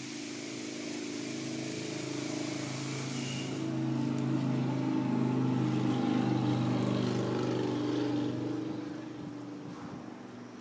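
A car engine running steadily: it grows louder in the middle and then fades, as if the car pulls past or away. A loud hiss of spray or blown air stops abruptly about three and a half seconds in.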